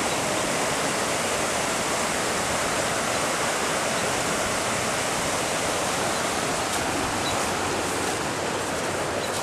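Steady rush of flowing flood water.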